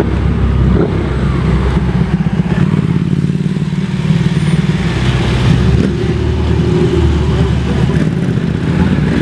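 Ferrari 488 Pista's twin-turbo V8 running at low revs as the car pulls away slowly, a steady low engine note.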